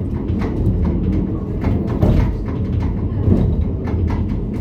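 A vehicle running, heard from inside: a steady low engine rumble with frequent rattles and clicks.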